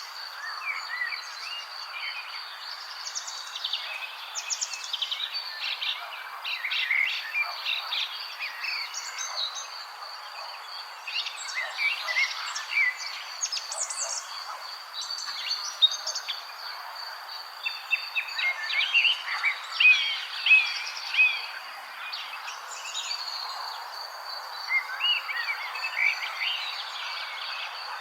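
Several small birds chirping and twittering in short, overlapping calls, some in quick trills, over a steady high thin tone and a background hiss.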